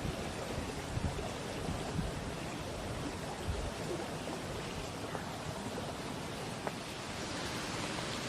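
Steady rushing of running water, with a few soft knocks in the first few seconds.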